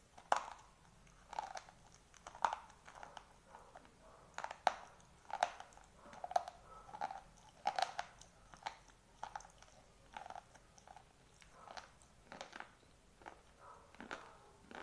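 Dry white slate pencil being bitten and chewed: a sharp crunching bite just after the start, then steady crunchy chewing at about two crunches a second.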